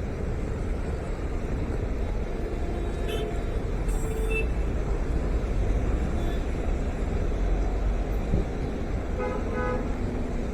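Steady road traffic noise with short car horn toots, a few around three to four seconds in and two quick ones near the end.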